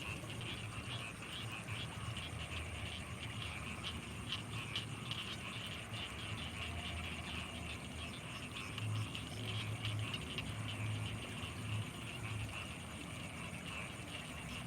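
Rice-field night chorus of frogs and insects: a dense, continuous run of short high chirps, with low pulsing croaks that grow stronger past the middle, under a thin steady high whine.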